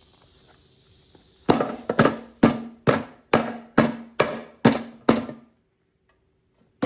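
Hammer blows on the seized crankshaft of a Honda GCP160 mower engine, about nine sharp strikes at roughly two a second, each with a short metallic ring, then a pause and one more strike at the very end: the crankshaft is being knocked out of the crankcase.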